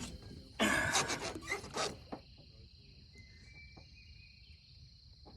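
Steady high chirring of insects, with a loud rustling burst of handling noise lasting about a second and a half, starting about half a second in.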